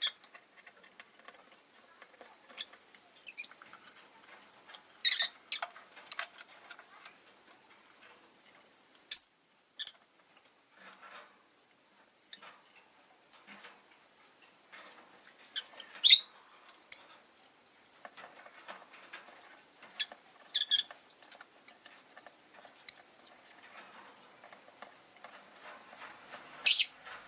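Rosy-faced lovebirds giving short, sharp, high chirps every few seconds, the loudest four spread several seconds apart, among small clicks and rustling in the cage.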